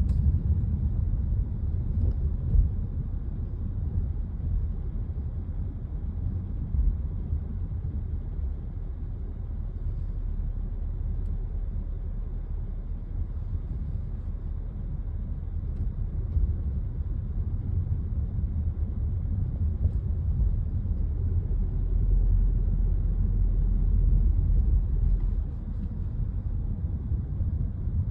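Honda CR-V's 1.5-litre Earth Dreams L15 turbo engine running with a steady low rumble, on its untreated oil. Somewhere in it is the light ticking that the owner puts down to noisy valves.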